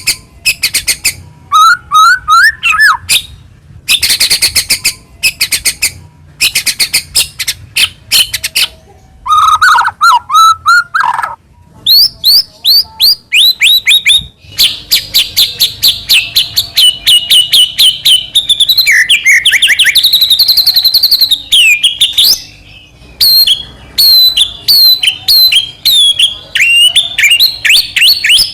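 White-rumped shama (murai batu) singing a fast, varied song: rapid runs of chirps and rattling trills, and rising and falling whistled notes, with a long stretch of quickly repeated notes in the second half.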